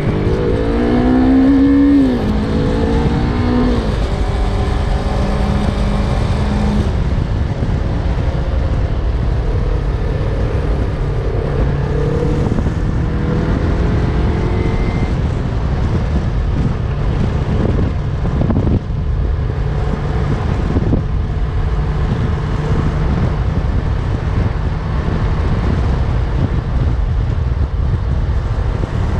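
Yamaha MT-03 parallel-twin engine accelerating through two gear changes in the first few seconds, its pitch rising, falling and rising again. It then cruises at a steady pitch over a constant low rumble of wind and road noise.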